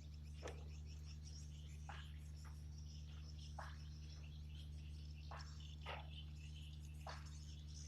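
Faint insect chorus, a steady high chirring, with seven short falling calls scattered through it, over a steady low hum.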